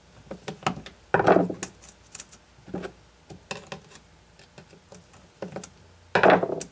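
Chainsaw chain being worked back onto the guide bar by hand: light metallic clicks and clinks of the chain links, with two louder rattles, about a second in and near the end.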